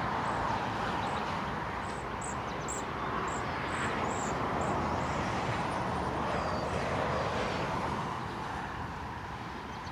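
Steady rush of car traffic passing on a nearby highway, swelling a little midway and easing off near the end. A series of short high chirps sounds over it about two to four seconds in.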